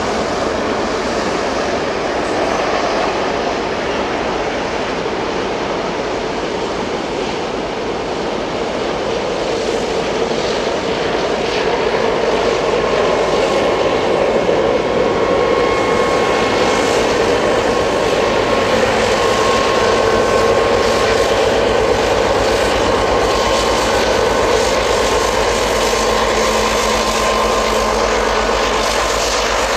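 Freight train of hopper wagons rolling past with steady wheel and running noise, thin whining tones coming and going. A heavy diesel locomotive pushing at the rear adds a deep engine drone that grows stronger in the second half.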